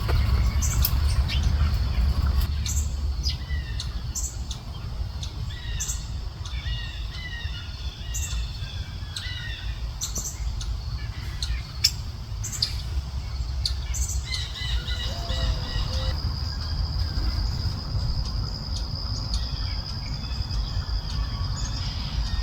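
Several birds chirping and calling in short trills, over a steady low rumble. About two-thirds of the way through, a thin, steady high note starts and holds.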